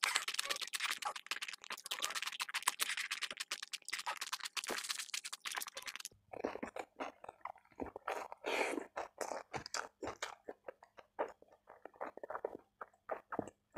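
Close-miked crunching of a raw cucumber slice being bitten and chewed, dense and crisp for about six seconds. Then it changes abruptly to sparser, softer chewing of a mouthful of omelette.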